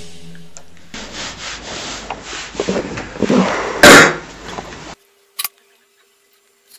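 A series of rough scraping, rubbing strokes, with one much louder scrape about four seconds in. It cuts off suddenly about five seconds in, followed by two short clicks.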